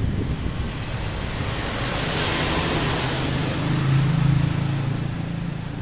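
Fuel-injected engine running during a tune-up, a steady low hum that swells about four seconds in and eases near the end, with a rushing hiss peaking about two seconds in.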